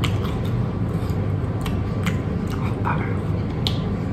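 Chewing a mouthful of battered, deep-fried croissant, with a few small sharp crackles as the crisp crust is picked apart by hand, over a steady low background hum.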